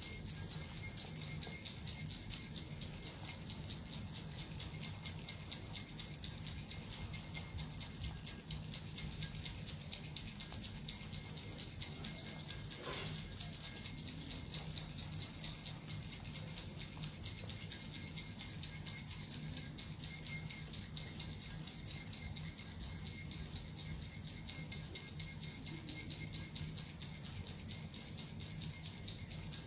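Small metal bells (suzu) shaken continuously, a steady high jingling shimmer.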